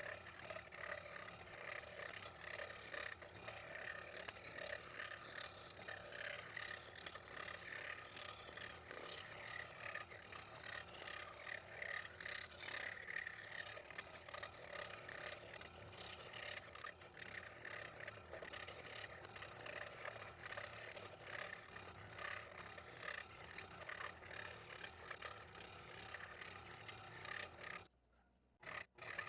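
Scroll saw running, its blade cutting through a stack of thin plywood with a steady, fast scraping chatter. The sound cuts out abruptly for about a second near the end.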